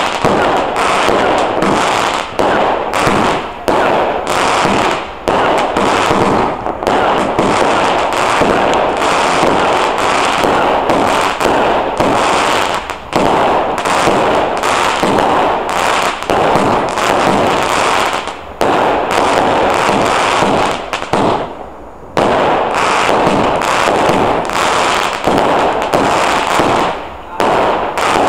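Fireworks going off in a rapid, continuous barrage of bangs and crackles, with one short lull about three-quarters of the way through.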